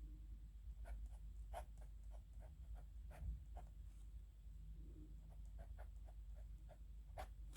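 Pen scratching on paper in quick, irregular short strokes, faint, as characters are written by hand. A low steady hum sits underneath.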